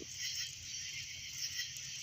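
Wood campfire burning, a steady hiss with small crackles.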